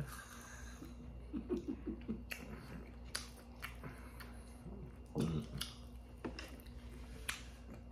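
Close-up chewing and biting of crispy fried food, with scattered sharp crunches.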